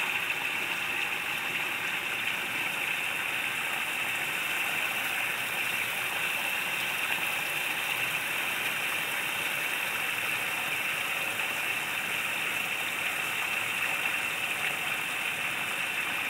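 Water splashing steadily down the steps of a small pondless waterfall, fed by a pump from the buried reservoir: an even, unbroken hiss.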